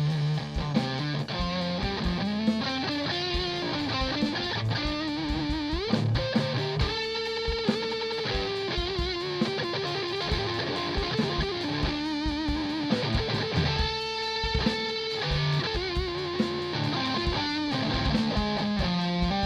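Live rock band playing an instrumental passage without vocals: electric guitar melody over a drum beat, with a rising pitch slide about six seconds in.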